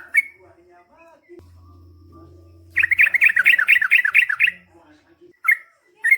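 Yellow-vented bulbul (trucukan) singing: a few scattered sharp chirps, then about halfway in a fast run of about ten repeated notes at roughly five a second, followed by more single chirps near the end.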